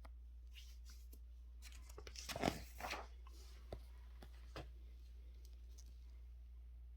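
Paper catalog pages being turned: a short rustle and crinkle of paper about two seconds in, followed by a couple of light ticks, over a faint steady low hum.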